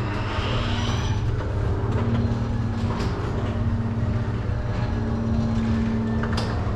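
Car engine running at a steady speed, with a low, even pulsing drone.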